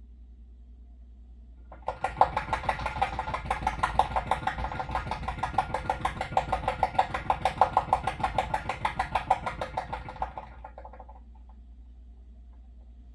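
Water heater pipe chattering with a rapid, even knock of about six or seven beats a second, starting suddenly about two seconds in and fading out around ten seconds, over a low steady hum.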